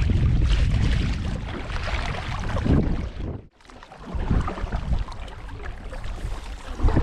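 Gusting wind on the microphone over water noise from a boat out on the water. The sound drops out abruptly about three and a half seconds in, then picks up again.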